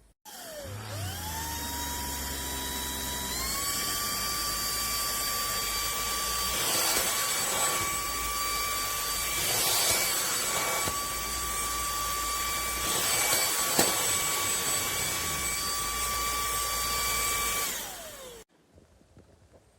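Lubluelu 25000Pa cordless stick vacuum's high-speed motor switching on, its whine rising as it spins up and stepping a little higher about three seconds in. It runs steadily with a few surges of rushing air, then winds down with a falling whine and stops near the end.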